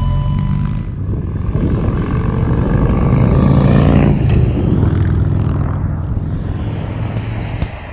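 A motorcycle engine going past, rising to its loudest about three and a half seconds in, then dropping in pitch and fading as it moves away.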